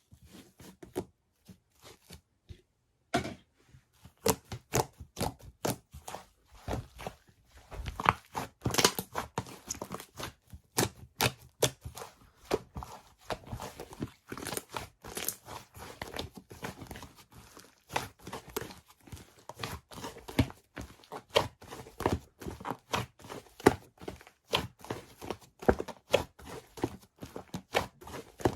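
Fluffy slime being squeezed, poked and stretched by hand, giving off a dense, irregular run of small clicks and pops from trapped air. It is sparse for the first few seconds, then nearly constant.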